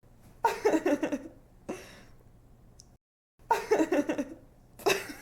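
A young woman laughing in short giggly bursts, each under a second and made of quick breathy pulses. The bursts are separated by brief pauses, one of them dead silent, where the sound-effect loop restarts.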